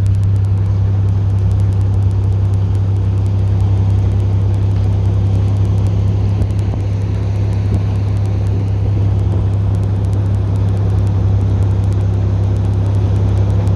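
TU6A narrow-gauge diesel locomotive's YaMZ-236 diesel engine running steadily as the locomotive travels, a constant low drone.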